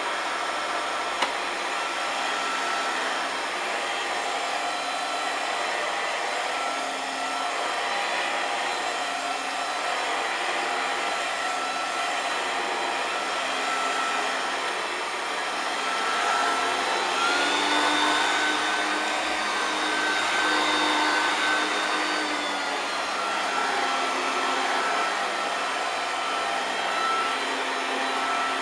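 Hoover TurboPower 2 U2464 upright vacuum cleaner running, a steady rush of air over a motor whine. A little past halfway the whine rises slightly in pitch and grows a bit louder for about five seconds, then settles back. There is a single faint click just after the start.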